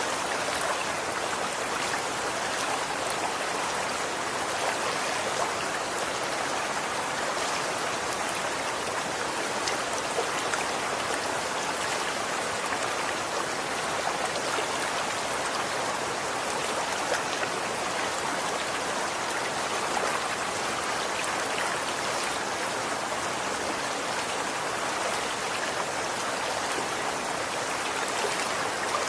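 Running water flowing steadily, a stream's even rush with small splashes and droplets through it.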